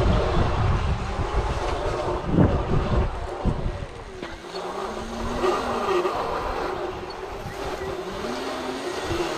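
Electric dirt bike motors whining while riding a sandy trail, the pitch of the whine rising and falling with the throttle. Wind buffets the microphone and the tyres rumble over the rough ground, loudest in the first few seconds.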